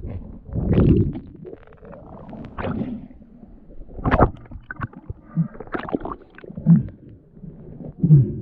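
Water sloshing and gurgling around a diver in a river, in irregular bursts with a few sharp knocks, heard muffled and low.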